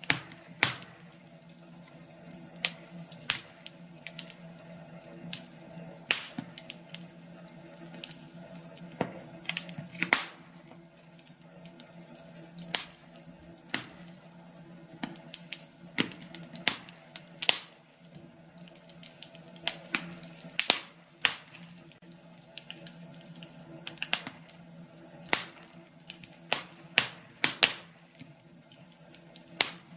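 Wood fire crackling in a fireplace: irregular sharp pops and snaps, sometimes several in quick succession, over a low steady background.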